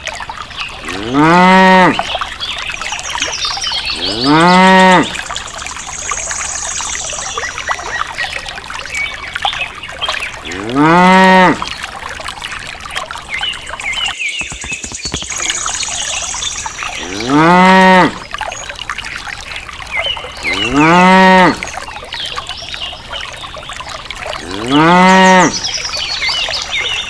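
A cow mooing six times, the same short call each time, rising and then falling in pitch. A steady trickle of water runs underneath.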